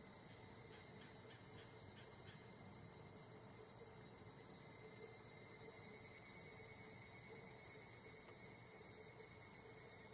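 Higurashi (evening cicadas) calling in a steady, high-pitched chorus, with a short series of quick pulses in the first couple of seconds.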